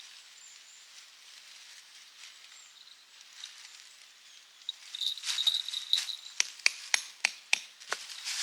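Tent pegs being hammered into the ground: a quick run of about seven sharp strikes, roughly three a second, in the second half.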